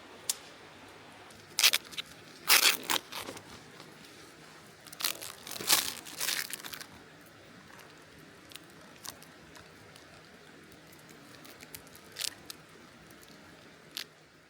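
Plastic packaging crinkling and being torn open in two short clusters, followed by a few scattered light clicks.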